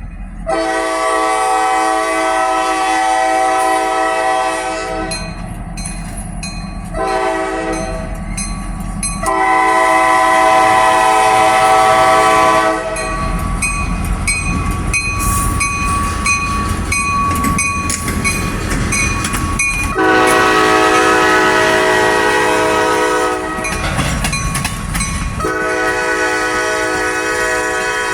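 Locomotive air horn sounding a series of long blasts, several notes at once, with the train's low rumble and the clack of wheels on the rails between blasts.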